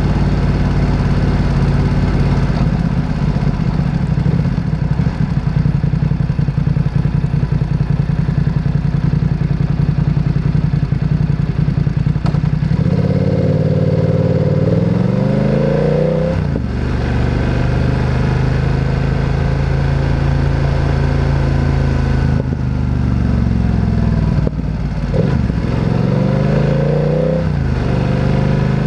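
Motorcycle engine under way, holding a steady note for the first dozen seconds. About halfway through it accelerates with a rising pitch and drops back at a gear change. It runs steadily again, then revs up once more near the end.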